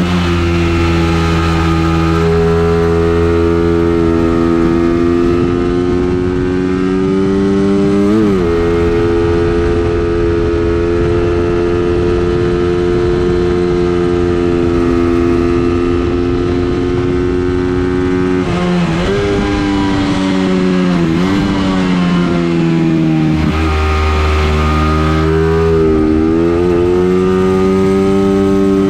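A racing vehicle's engine run hard on a circuit lap. It holds high revs with its pitch slowly climbing, then drops briefly and climbs back several times, most in the last third.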